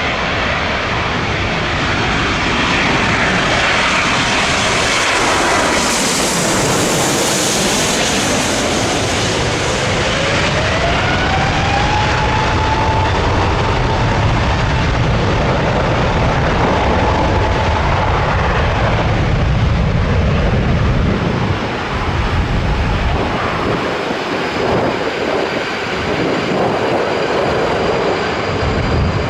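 Large jet airliner passing low overhead on final approach: loud engine and airframe noise that builds to its peak about seven seconds in, with a whine that rises and then holds steady about ten seconds in. The noise fades after about twenty seconds.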